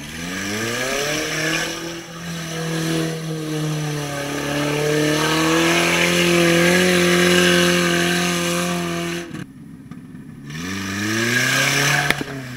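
Lada Niva engine revving hard under load through deep water and mud, the revs climbing and then held high with a hiss of spray over them. The sound breaks off abruptly about nine seconds in, and the revs climb again soon after, with a sharp knock near the end.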